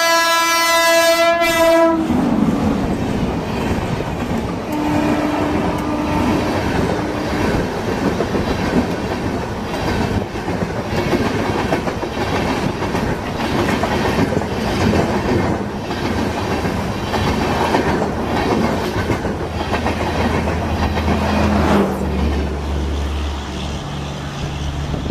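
WAP-5 electric locomotive's horn sounding one blast of about two seconds as it arrives. Then the Duronto Express coaches rush past at speed with a fast clickety-clack of wheels over the rail joints, thinning out near the end as the last coach goes by.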